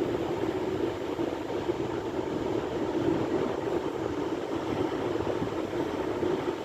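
Sea surf: a steady low rush of breaking waves, with no single crash standing out.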